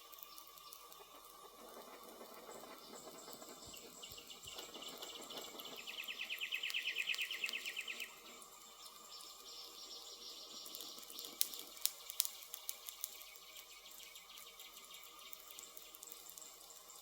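Forest ambience: insects trilling, the loudest a fast pulsing trill that runs for about two seconds near the middle, over thin steady high insect tones. A few sharp crackles from a burning wood fire come about two thirds of the way through.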